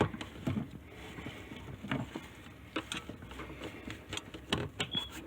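Wire-necked pipe brush pushed and twisted inside a sink drain pipe: irregular scrapes and knocks, with a brief squeak near the end.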